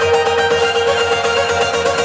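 Plucked string instrument playing fast, evenly repeated picking over a held note, with more notes joining in the lower register near the end.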